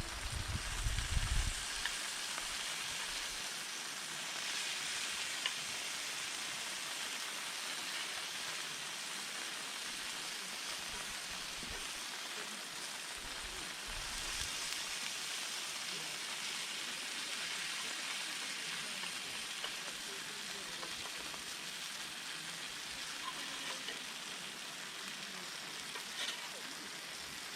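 Steady rain falling, an even hiss throughout, with a low rumble in the first two seconds.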